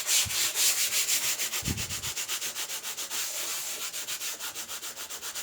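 Fast, even back-and-forth scrubbing strokes on the oven's surface, several a second, working off grime loosened with a vinegar and bicarbonate of soda solution.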